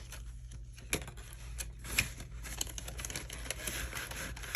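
Cash and savings-challenge binder pages being handled: rustling and crinkling, with small clicks and two sharper taps about one and two seconds in.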